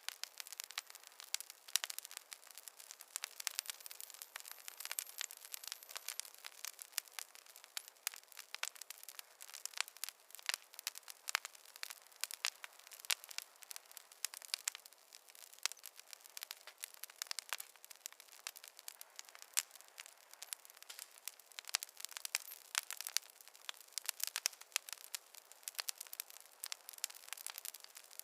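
Fire crackling: many quick, irregular snaps and pops over a faint hiss, with no low rumble.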